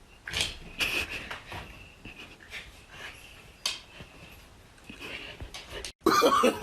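A kitten moving about: soft scuffling and scattered clicks with faint high squeaks and breaths. Near the end it cuts abruptly to a louder stretch where a voice begins.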